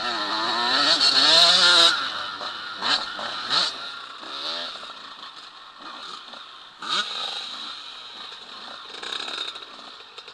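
Motocross bike engines revving and changing pitch as the bikes ride, loudest in the first two seconds, then fainter, with a short burst of revving about seven seconds in.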